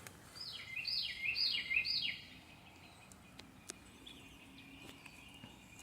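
A songbird singing a quick run of four repeated notes, each falling in pitch, followed a little later by one fainter note.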